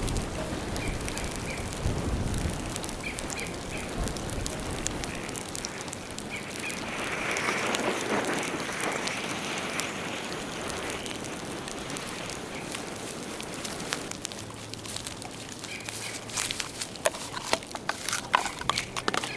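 Bonfire of dead bamboo burning, with scattered crackles and pops that grow denser near the end, over a steady outdoor hiss.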